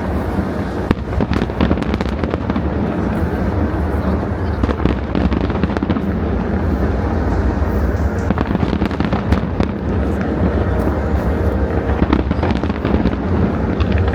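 Fireworks going off in a dense, continuous barrage: many sharp cracks and pops over a steady low rumble of bursts.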